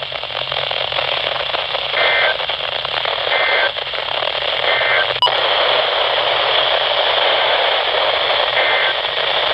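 Loud steady static hiss from a weather-radio receiver with no voice on the channel. Four faint, short two-tone chirps come through the hiss, about 2, 3.5 and 5 seconds in and once more near the end.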